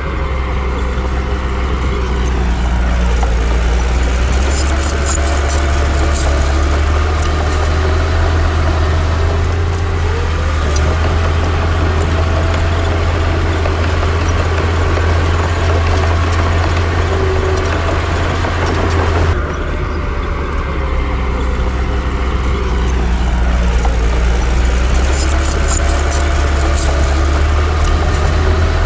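Heavy diesel engine of earthmoving machinery running with a deep steady drone, its pitch sagging and recovering as it takes load, with short metallic clanks twice. The sound changes abruptly about two-thirds of the way through.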